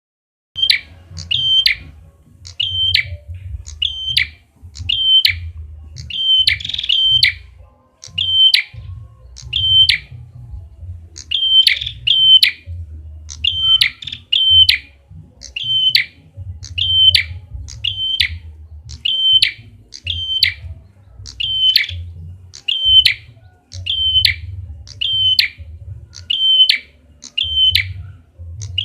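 Red-headed prenjak (prenjak kepala merah) call used as a lure call: a sharp, high double chirp repeated over and over, about one pair a second, over a steady low rumble.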